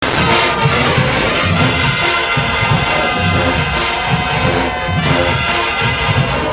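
A marching band's brass section playing loud and full in the stands, with a steady, rhythmic pulse in the low brass and drums.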